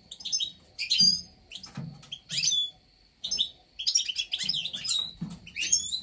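Small finch-type birds chirping: short high tweets with quick pitch glides, coming in irregular clusters every half second or so, over a faint steady high tone.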